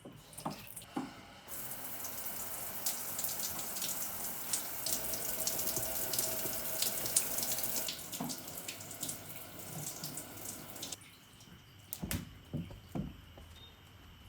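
Water running from a tap into a sink. It starts about a second and a half in and fades out over the last few seconds of the flow, with a few short knocks at the start and near the end.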